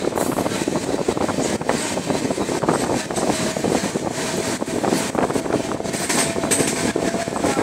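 Passenger train running, heard from on board: a steady rumble of wheels on the rails with dense rattling and clatter, and a faint steady whine from about three seconds in until near the end.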